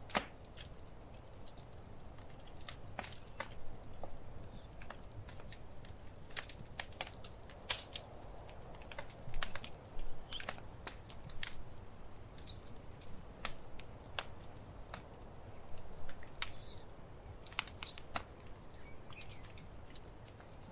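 Wood fire crackling: irregular sharp snaps and pops, several a second, over a steady low rumble.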